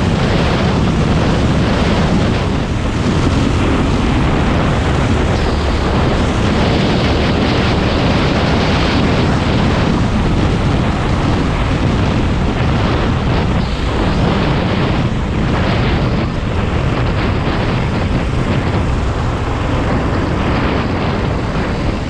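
Predator 390 single-cylinder kart engine running hard, heard onboard as a loud, steady, rough noise.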